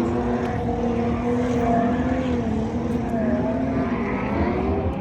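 Car engine idling with a steady drone whose pitch wavers slightly, dipping briefly about three seconds in, over a low rumble of other vehicles.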